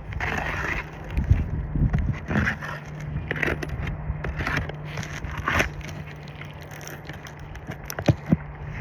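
Asphalt roof shingles being pried and worked loose with a pry bar: a series of scraping, crunching strokes, then a few short sharp knocks near the end.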